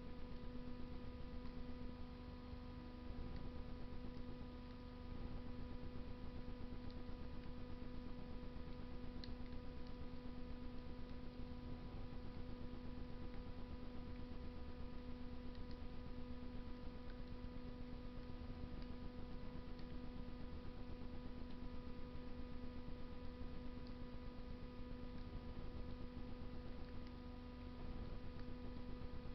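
Wood fire burning in a Russian stove: a few faint crackles every several seconds, under a steady electrical hum with several fixed tones and a low rumble.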